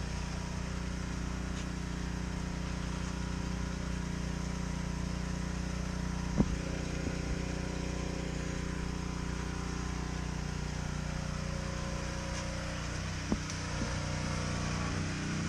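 A motor running steadily with a low, even hum, broken by two short sharp knocks, one about six seconds in and one near the end.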